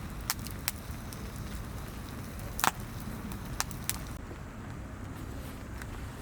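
Wood campfire crackling, with a handful of sharp, irregular pops over a low steady rumble; the loudest pop comes about two and a half seconds in.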